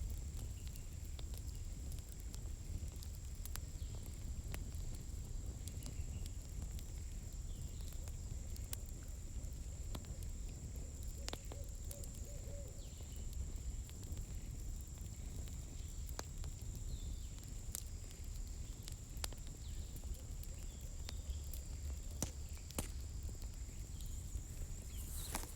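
Campfire burning, its firewood crackling with scattered sharp pops over a steady low rumble and a thin, steady high whine.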